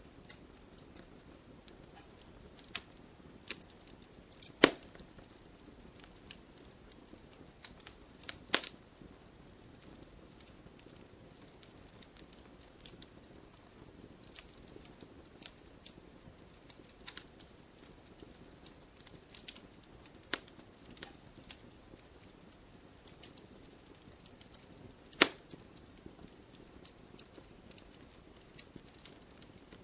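Wood campfire burning: a soft steady hiss with scattered small crackles and three loud, sharp pops, about five seconds in, about nine seconds in, and near the end.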